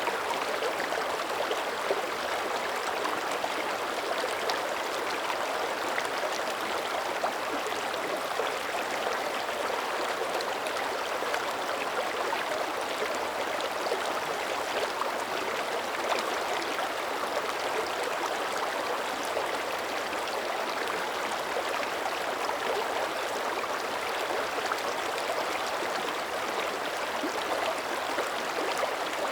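Mountain creek running steadily over its bed: a continuous rushing babble of water, with small gurgles and splashes scattered through it.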